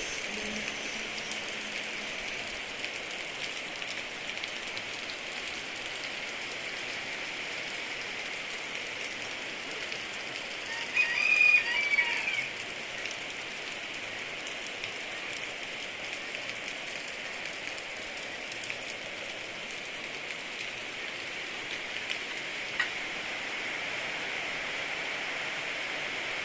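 Steady rain falling, an even hiss. About halfway through, a short pitched call with sliding tones rises briefly above the rain.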